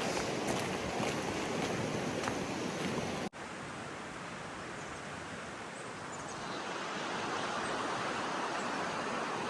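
Steady rushing noise of running water, with a momentary break about three seconds in.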